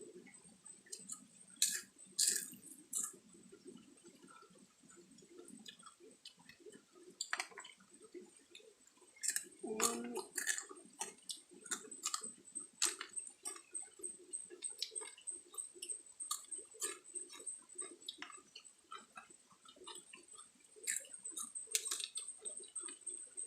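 Someone eating, chewing with irregular small clicks and cracks, over a steady high-pitched whine.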